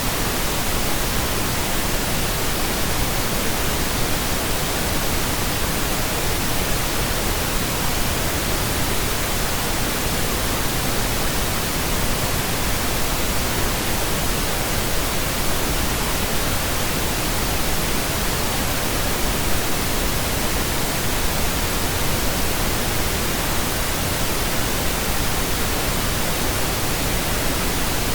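Steady pink noise: an even, unchanging hiss spread across the whole range, with no tones or events.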